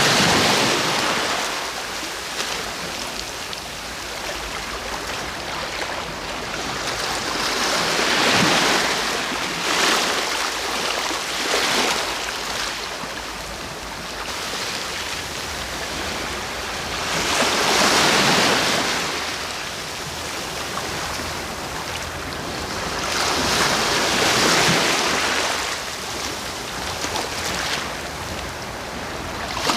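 Sea waves breaking and washing ashore, a steady hiss of surf that swells into a louder surge every several seconds and then fades.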